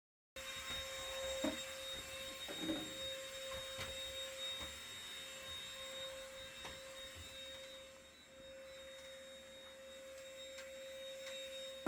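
A faint, steady high-pitched whine over low room noise, with a few light knocks in the first few seconds.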